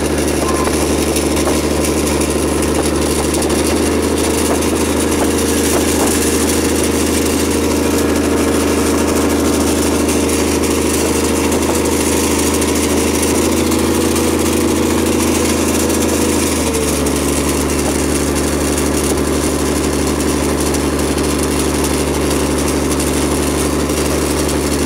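A vehicle's engine running steadily, heard from on board. Its tone shifts slightly about three seconds in and again near seventeen seconds.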